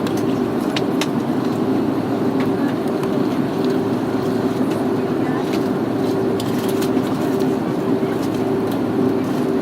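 Steady cabin noise inside an Airbus A330-300 airliner on descent: a constant rush of airflow over a low, even engine hum, with a few faint ticks.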